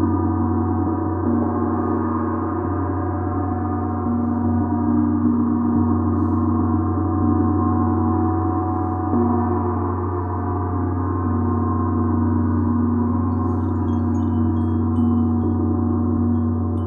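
A gong played as a continuous wash: many overlapping sustained tones hum and shimmer at a steady level, with no separate strikes standing out.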